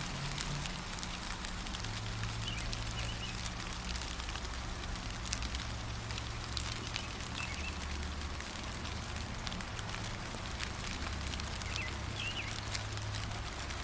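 Steady gentle rain with many small drips and patters, and a few short bird chirps now and then.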